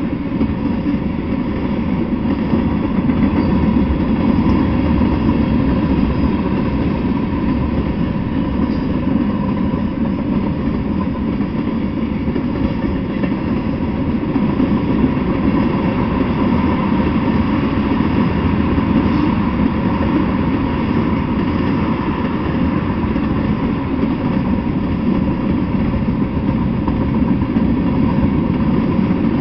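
Freight train of tank cars and boxcars rolling past, a loud, steady rumble of steel wheels on the rails.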